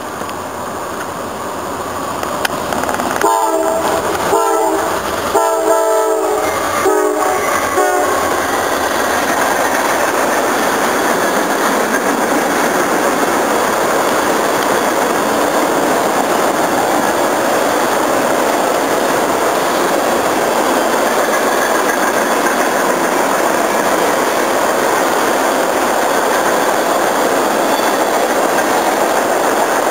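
A train horn sounds about five blasts of differing length, then the train passes close by with a steady rush of wheels on rail.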